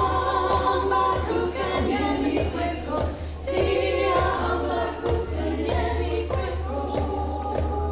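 Mixed community choir singing an African song in several parts, with a steady beat of low strikes beneath the voices.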